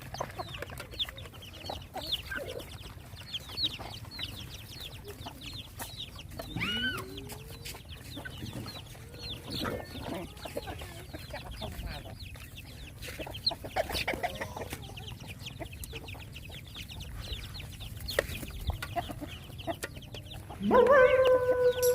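Chickens clucking, with many quick high-pitched peeps throughout. Near the end comes a loud, drawn-out call that starts with a rise, like a rooster's crow.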